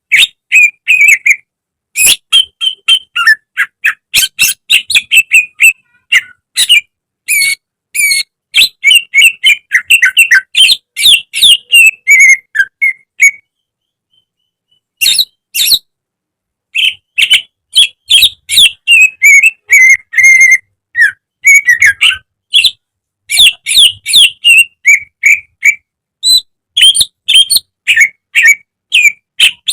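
Green leafbird (cucak ijo) singing loudly: fast runs of chirps, whistles and trills in phrases with short pauses, breaking off for about a second and a half near the middle.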